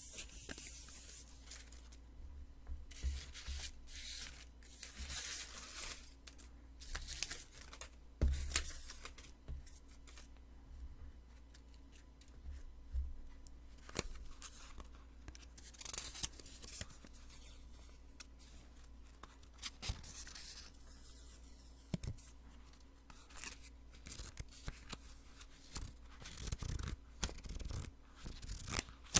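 Post-it sticky notes being peeled off one after another, close to the microphone. Each peel is a short, crisp, sticky rip, with small clicks of paper handling between peels.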